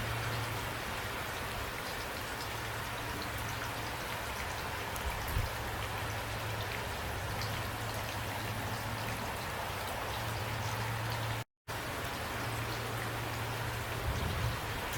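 Steady heavy rain with individual drops pattering, over a low steady rumble. The sound cuts out completely for a split second about two-thirds of the way through.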